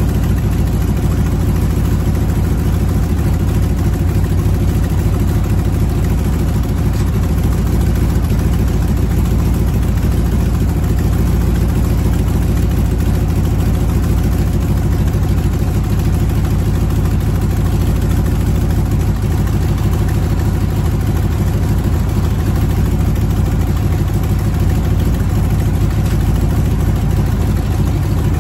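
V8 engine of a 1959 Cadillac ambulance idling steadily.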